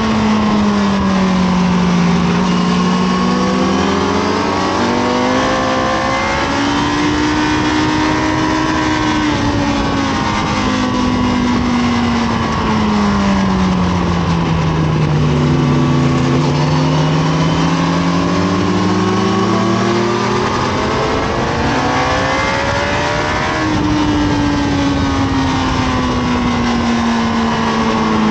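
Honda CBR1000RR SC57's inline-four engine heard from onboard at track speed, its pitch sinking and climbing several times as the bike brakes for and accelerates out of corners, over steady wind rush. It gives a sudden step up in pitch about two-thirds of the way through.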